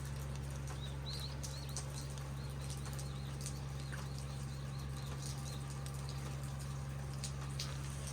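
A bird calling a run of short, repeated chirps, about three a second, that stops a little past halfway, over a steady low hum and scattered light ticks.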